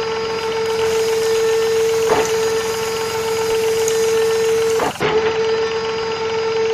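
Small electric motor of a DIY mini model truck whining at a steady pitch, with a couple of brief knocks.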